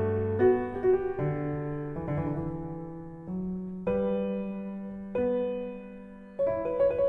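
Background music: slow, gentle piano, with chords struck every second or so and left to ring and fade.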